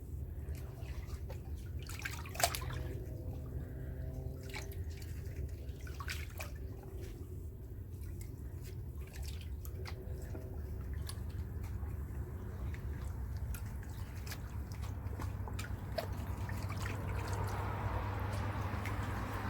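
Seawater dripping and trickling under a dock: scattered single drips over a steady low rumble, with the trickle growing louder in the last few seconds.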